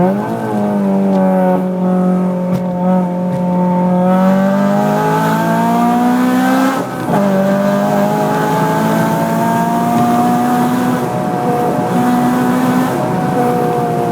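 Honda Civic Type R FN2's 2.0-litre i-VTEC four-cylinder engine, with an aftermarket Gruppe M intake and Martelius exhaust, running under load. Its pitch climbs steadily, falls abruptly about seven seconds in, like a gear change, then holds fairly level.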